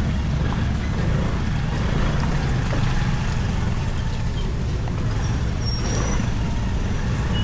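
Motorcycle riding through city traffic: a steady low engine and road rumble with wind noise and no change in pace. A few brief, faint high-pitched tones come over it, about halfway through and near the end.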